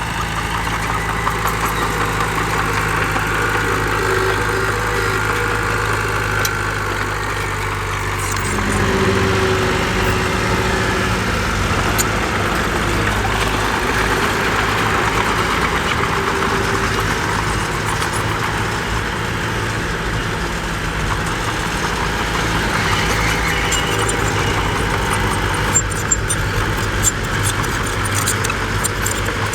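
Heavy diesel construction machine engine running steadily, its note changing and growing a little louder about eight seconds in. A few sharp knocks are heard near the end.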